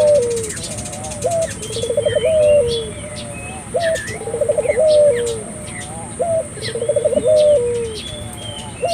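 Barbary dove (burung puter) cooing vigorously in repeated phrases, about one every two and a half seconds: a short rising note, a rapid stuttering run, then a longer falling note. Small birds chirp faintly higher up.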